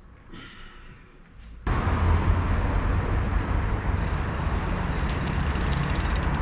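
A sudden loud rush of wind on the microphone and road noise starts about two seconds in and holds steady as the mountain bike is ridden and its brakes tested. The freshly cleaned disc brakes make no squeal.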